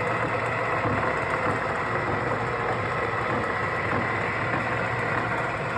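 DJC 25-inch gap bed lathe, model CD6256B, running steadily under power with its lead screw turning: an even machine hum with a thin, steady high whine.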